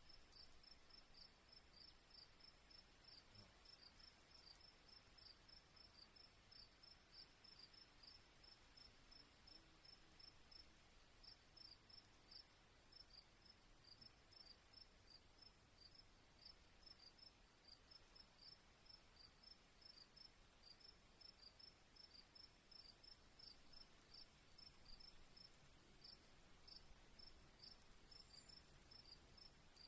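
Faint crickets: a steady high-pitched trill, with short chirps about three times a second over it.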